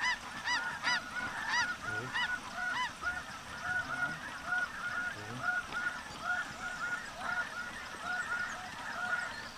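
Many snow geese honking together: a continuous stream of short, overlapping high calls.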